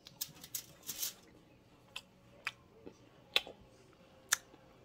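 A crunchy cookie being chewed close to the microphone: a handful of short, sharp crunches at irregular intervals.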